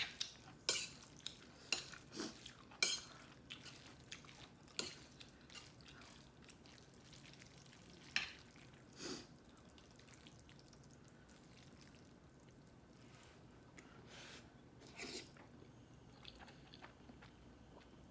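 Close-miked eating sounds: wet mouth smacks and chewing, with light clicks of utensils on a dish. They come thick and fast in the first few seconds, then only now and then.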